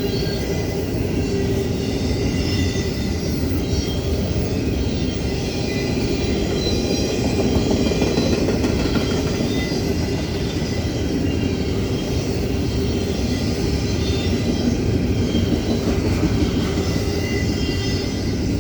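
Union Pacific double-stack intermodal freight train rolling past: a steady rumble of wheels on rail.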